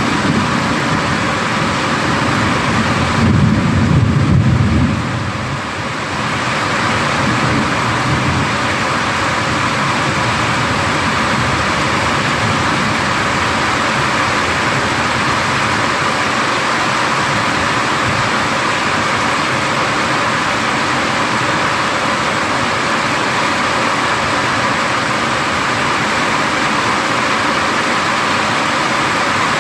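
Heavy thunderstorm rain falling steadily, with a low rumble of thunder rolling about three to five seconds in.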